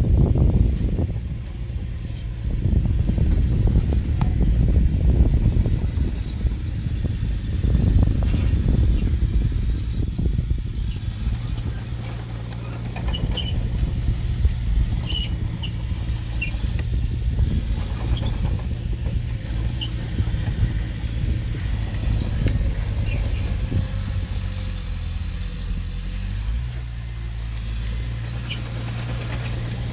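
Heavy-equipment diesel engine running, heavier and uneven for the first dozen seconds, then settling to a steady hum. Short faint squeaks come now and then.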